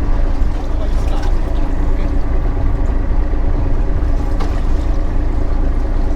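Fishing boat's engine running steadily with a low drone, with a few faint clicks over it.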